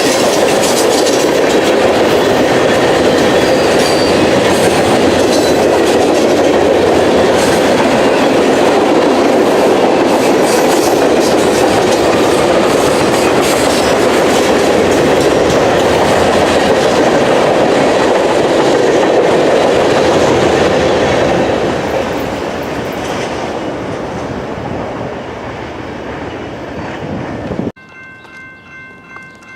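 Freight train rolling past, a loud steady rumble and clatter of railcars on the track that fades over the last several seconds. Near the end it cuts off abruptly to a much quieter sound with a steady chord of high tones.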